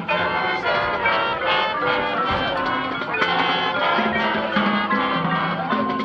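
Marching band playing, brass section carrying chords and melody over percussion.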